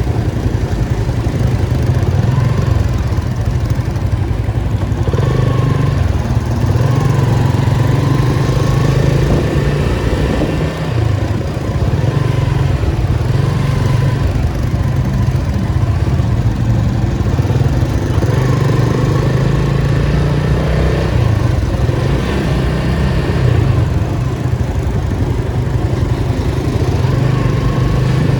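Datsun 280Z's straight-six engine running at low revs in slow traffic, a steady deep drone that swells and eases a little as the car creeps along.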